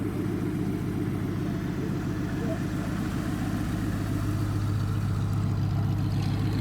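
A large piston aircraft engine running steadily at low power, a low even drone that grows a little louder in the second half.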